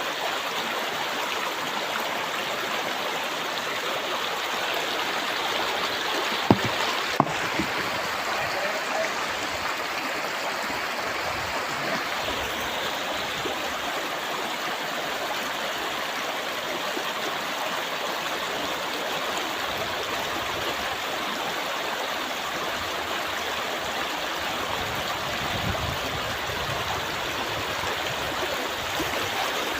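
A clear, shallow river flowing steadily: an even, constant rush of water. Two sharp clicks or knocks come about six and seven seconds in.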